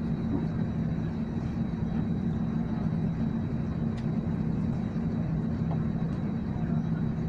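Airliner engines running: a steady low drone with a faint high whine above it.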